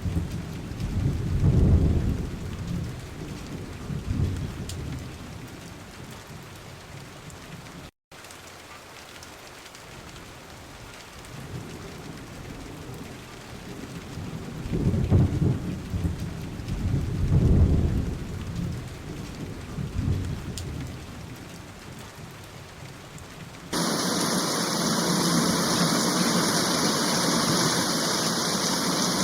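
Thunderstorm: steady rain with rolling rumbles of thunder, one bout at the start and another about fifteen seconds in. Near the end the sound switches abruptly to a much louder, steady rush of heavy rain.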